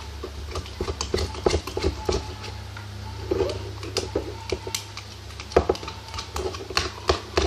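A spoon stirring sticky glue slime in a cup as the activator is mixed in, making irregular clicks, knocks and scrapes against the cup. A steady low hum runs underneath.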